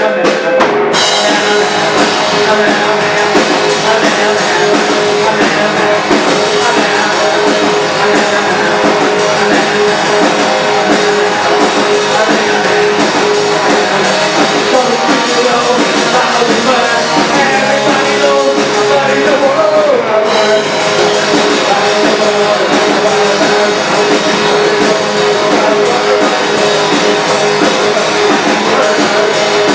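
Rock band playing live: electric guitar and drum kit, with some singing.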